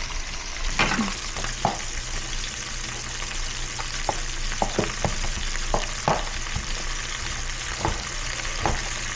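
Ground beef sizzling as it fries in a pan, stirred with a utensil that clicks and scrapes against the pan a dozen or so times.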